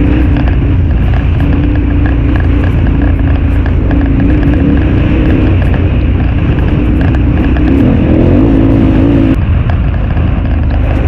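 Motorcycle engine running steadily under way on a gravel track, with heavy wind rumble on the camera microphone. Near the end the engine note climbs briefly, then drops suddenly.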